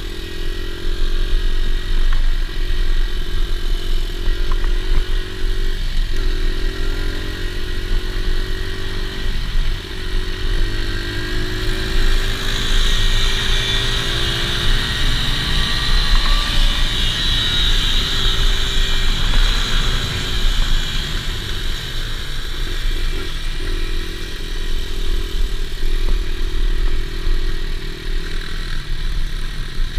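Dirt bike engine running while riding, its pitch stepping up and down with throttle and gear changes. A rushing hiss swells in the middle of the stretch and fades again.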